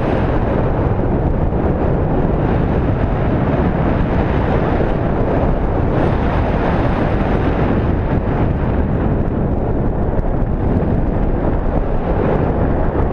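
Steady, loud wind noise buffeting the microphone: a continuous rumbling rush of air, heaviest in the low end, with no breaks.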